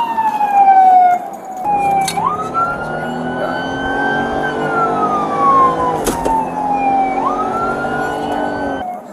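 Emergency vehicle siren on a slow wail, its pitch sliding down, then sweeping up and slowly falling again. About two seconds in, a deeper steady rumble and hum joins underneath, with two sharp clicks, and cuts off suddenly near the end.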